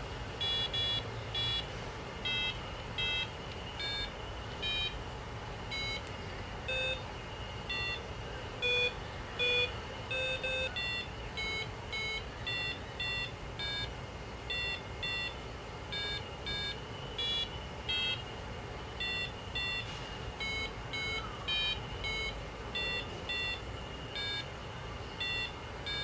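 Arduino-driven piezo buzzer beeping out a simple melody note by note, short electronic tones at changing pitches, about one or two a second. The pitch is set by a hand shading a photocell light sensor over an infrared sensor, so some notes are uneven. A faint steady high whine runs underneath.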